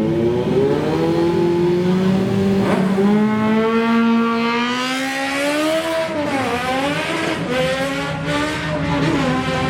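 Drag-racing engine accelerating hard down the strip, its pitch climbing steadily. The pitch dips briefly about six seconds in as it shifts gear, then climbs and holds again.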